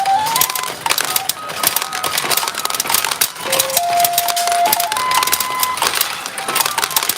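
Retro pachinko machine in play: a constant fast clatter of steel balls rattling through the machine and tray, over a simple beeping electronic tune of single tones stepping up and down.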